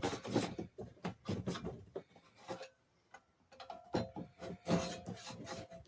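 Steel fork tube of a 1972 Arctic Cat Ramrod minibike being slid in and out of its freshly honed, greased fork leg to test for binding. Metal rubs with irregular light clicks and knocks, pausing briefly about halfway through.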